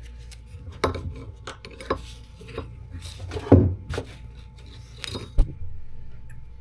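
Irregular knocks and clatter of metal parts and tools being handled during shop work, the loudest knocks about three and a half and five and a half seconds in, over a steady low hum.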